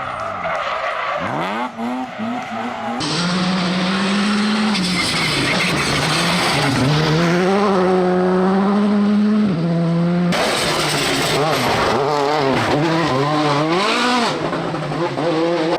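Car engines revving, their pitch rising and falling again and again over tyre and road noise, in several short segments that change abruptly.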